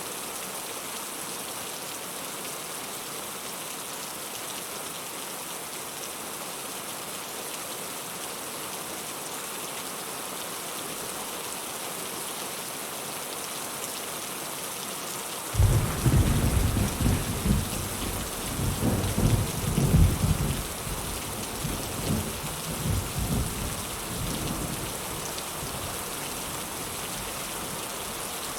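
Heavy rain falling steadily. About halfway through, a loud rolling rumble of thunder starts suddenly and dies away over about ten seconds.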